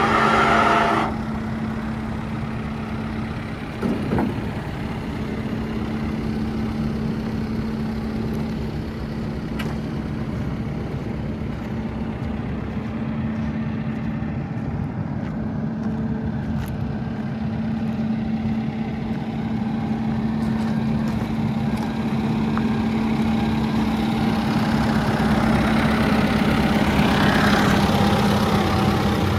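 Deere 4.5L turbo diesel engine of a 410L loader backhoe running steadily at idle, with a brief knock about four seconds in.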